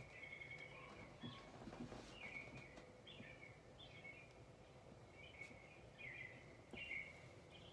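Faint birdsong ambience: birds chirping in short repeated calls, one or two a second, over a soft steady hiss.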